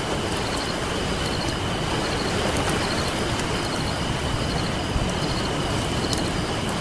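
Campfire crackling with scattered sharp pops over a steady, even rush of ocean waves.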